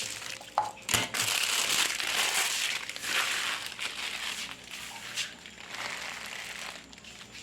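Plastic bags crinkling and rustling as they are handled, in an irregular run of crinkles, with a short knock about a second in.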